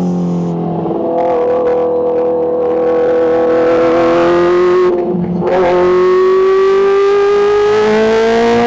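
Kawasaki H2's supercharged inline-four engine running under load, its pitch climbing slowly, with short breaks about a second in and about five seconds in.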